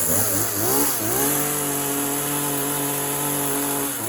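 Two-stroke chainsaw engine running at high revs: the pitch wavers up and down for about the first second, then holds steady for about three seconds.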